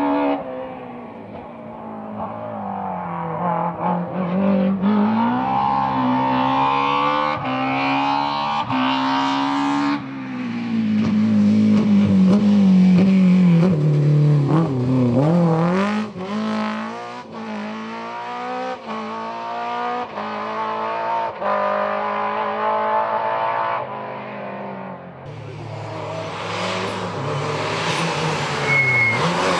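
Rally car engine at full throttle. The revs climb in repeated steps through upshifts and fall away as the driver lifts and brakes, with one deep dip and pick-up about halfway through. Near the end the note changes to a noisier, lower sound.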